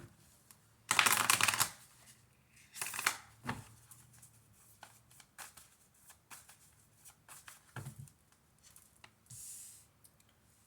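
A deck of reading cards being shuffled by hand: a loud riffle about a second in, a shorter shuffle near three seconds, then scattered soft taps and slides of cards.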